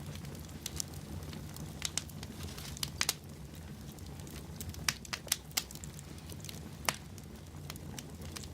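Wood fire burning in a fireplace: a steady low rumble of the flames with scattered sharp crackles and pops, a few louder ones standing out.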